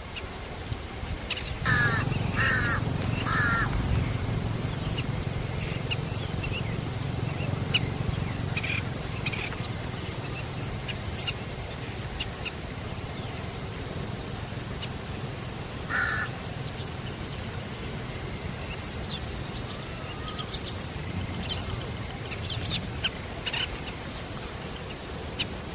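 Birds calling: three harsh calls about a second apart near the start and another midway, with short faint chirps throughout over a low steady rumble.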